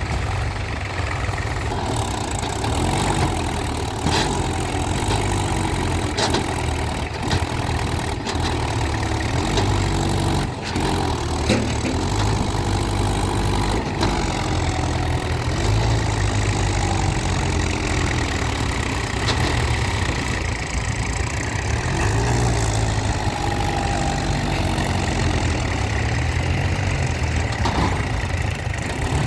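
Mahindra Yuvo tractor's diesel engine running, its speed rising and falling again and again, with a few brief knocks.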